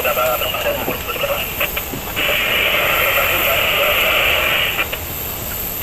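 Speech coming through a radio or small loudspeaker, thin and narrow-sounding and broken up, then a steady burst of static hiss lasting about two and a half seconds before the broken speech resumes.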